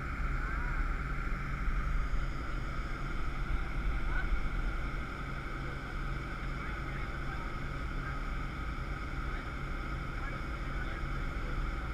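Jet boat's engine running steadily with a low rumble, with faint passenger chatter in the background.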